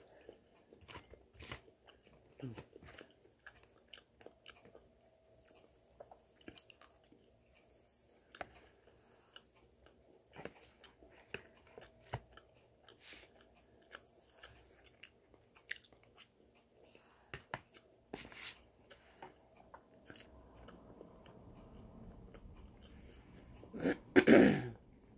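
Close-miked chewing of a crisp fried pakora: wet mouth sounds with many small crunches and clicks throughout. A louder, brief burst of noise comes near the end.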